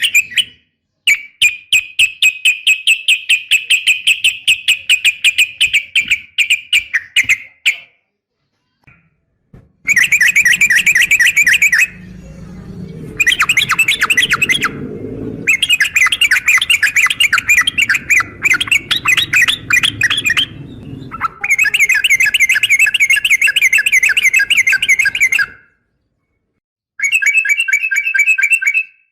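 Yellow-vented bulbul (trucukan) calling in long, rapid chattering runs of repeated notes, several runs broken by short pauses. A low rumbling noise sits under the calls through the middle.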